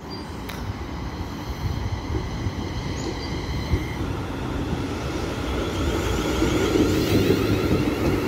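ScotRail Class 380 electric multiple unit running into the station alongside the platform, a steady rumble with a light whine that gets louder from about six seconds in as the train comes close.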